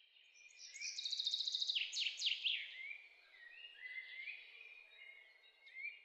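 Songbirds singing: a fast trill and a few quick downward-sweeping whistles in the first few seconds, then softer chirps, over a faint steady hiss.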